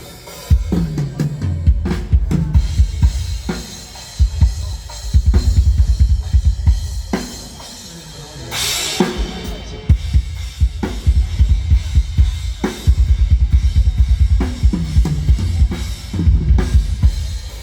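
Acoustic drum kit played solo in a sound check: fast bass-drum runs and tom fills with snare hits, and one cymbal crash about nine seconds in.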